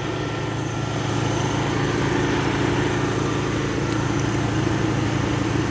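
Steady drone of a small engine running at an even idle, with a low pulsing beat throughout.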